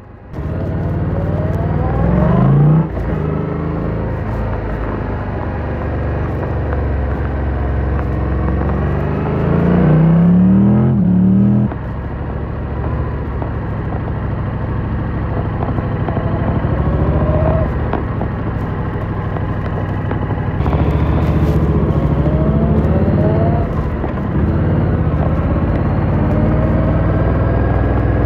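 Motorcycle engine under way, the revs climbing and then dropping sharply several times as the rider accelerates and changes gear or rolls off the throttle.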